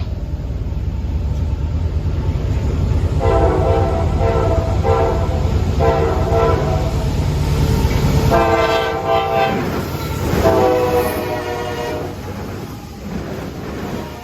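Diesel freight locomotives rumbling past. A multi-chime air horn sounds in a series of blasts from about 3 seconds in to about 11 seconds. The low engine rumble drops away just past the middle.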